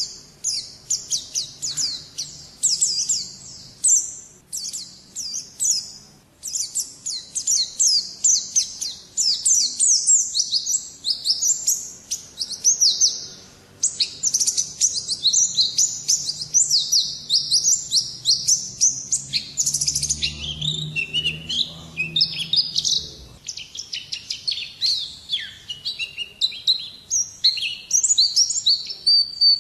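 A white-eye (pleci) sings in rapid, high-pitched twittering runs of quick sweeping notes, with a couple of brief pauses. In the second half its phrases grow more varied and dip lower.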